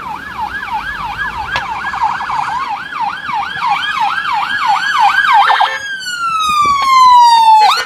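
Police car siren on a fast yelp, its pitch sweeping up and down about three times a second and growing louder. About six seconds in it switches to one long falling tone, then cuts off suddenly near the end.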